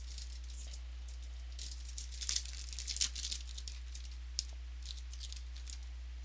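Crinkling and tearing of a trading-card pack wrapper being handled and opened, a dense run of crackles about two to three seconds in, with scattered clicks after. A steady low electrical hum runs underneath.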